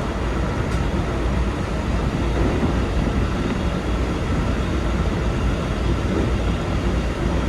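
Keikyu 2100 series electric train running on the line, heard from the driver's cab as a steady low rumble of wheels and running gear.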